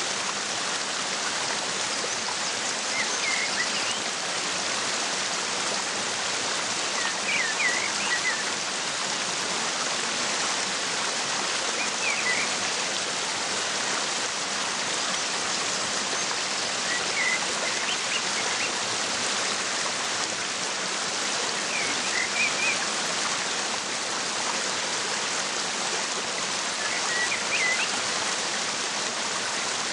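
Steady, unbroken noise of falling water from a waterfall, with a bird giving short bursts of high chirps every four or five seconds.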